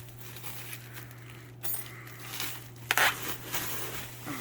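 Cardboard box and packing material being handled and pulled apart, rustling, with one sharp clatter just before three seconds in. A steady low hum runs underneath.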